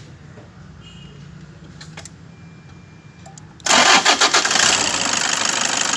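Toyota Innova diesel engine cranking and catching suddenly about three and a half seconds in, then running steadily. The accessory drive belt is off, so it runs without the noise that the mechanic puts down to a failed AC compressor bearing.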